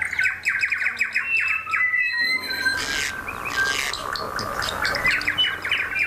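Birds calling: quick runs of short, high chattering notes, with a few harsher, noisier calls about halfway through.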